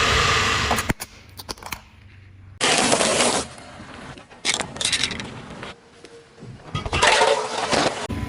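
Things being crushed under a car's tyre: crunching and cracking in four separate bursts, with sharp clicks and snaps between them.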